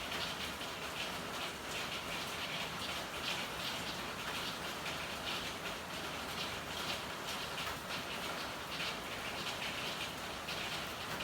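Steady rain falling in an alley, with a constant hiss and irregular close drips and patter on hard surfaces.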